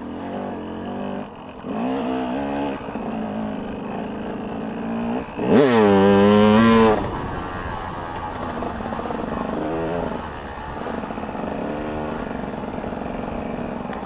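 Motocross bike engines revving and changing pitch as they ride. About five and a half seconds in, one bike passes close and loud, its pitch rising and then dropping as it goes by; fainter bikes rev in the distance after it.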